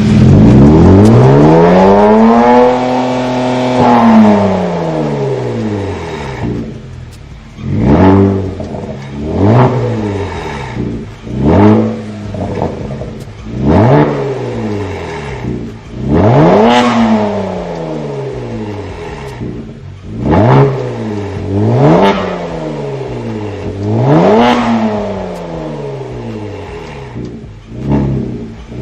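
Kia Stinger 3.3 twin-turbo V6 through an RES titanium H-pipe exhaust with no valve, revving in place. One long rev rises and falls over the first few seconds, then follows a string of short throttle blips, each climbing and dropping back.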